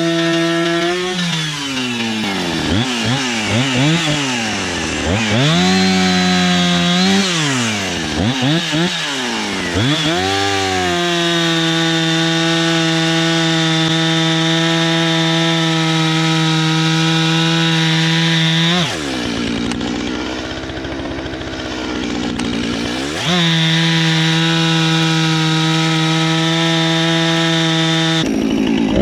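Two-stroke Husqvarna 455 Rancher chainsaw bucking a log. It is revved up and down over and over for the first ten seconds, then held at full throttle. The pitch drops for a few seconds past the middle as the chain loads up in the wood, then the saw runs back up to full speed.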